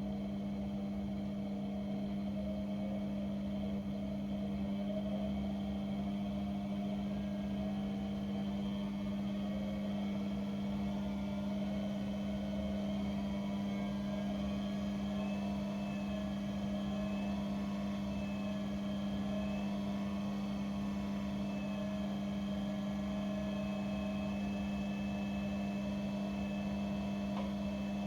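A washing appliance running a wash cycle, with a steady motor hum and fainter higher tones.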